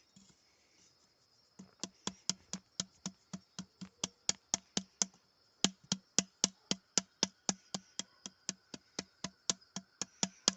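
Steady, rapid knocking, about three and a half sharp knocks a second, each with a dull thud, starting about a second and a half in.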